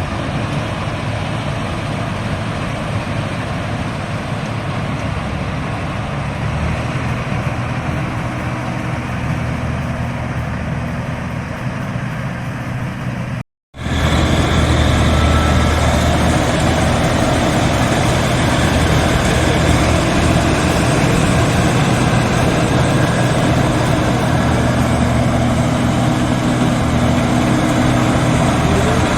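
A rice combine harvester's engine running steadily while harvesting, with a low, even hum. The sound cuts out briefly about halfway through, then resumes louder.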